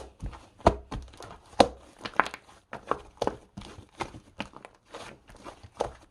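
A run of short, irregular crinkling and tapping handling noises, two or three sharp ones a second, in a small room.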